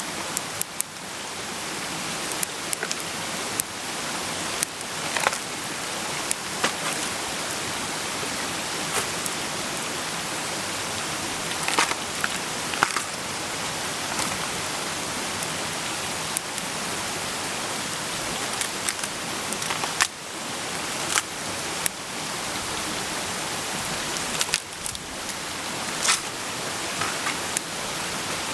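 Campfire cooking: a steady hiss with irregular sharp crackles and pops, as of food sizzling in a pan over a wood fire that is crackling.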